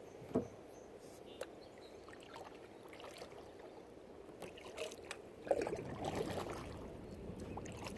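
Kayak paddle working the water: drips and light splashes, with a louder swishing stroke from about halfway through. A single knock sounds near the start.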